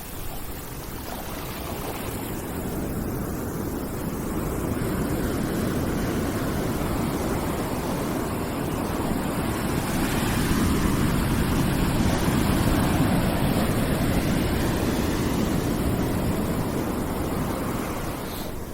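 Continuous deep rushing noise from a background white-noise track, with no tones or beats, most of its weight low down. It swells slowly to a peak past the middle and ebbs again near the end, like a surge of surf.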